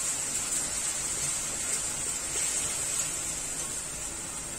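Ground onion paste and dried red chillies sizzling in hot mustard oil in a kadhai, a steady hiss as the onion fries toward translucent.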